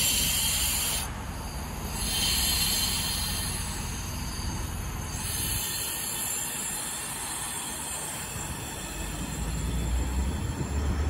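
NSW TrainLink V set double-deck electric intercity train pulling away from the platform: bursts of air hissing in the first few seconds, then a low rumble of the train that builds toward the end.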